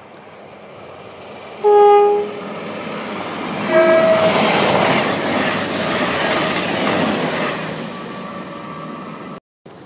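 Class 221 Super Voyager diesel multiple unit sounding its horn twice on two different notes, the first blast longer and louder, as it approaches. It then rushes past at speed, the rail and wheel noise swelling and fading away before the sound cuts off abruptly near the end.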